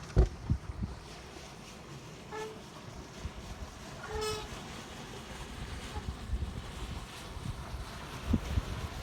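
Two short horn toots, a brief one about two seconds in and a slightly longer one about four seconds in. Low thumps of wind on the microphone come near the start and the end.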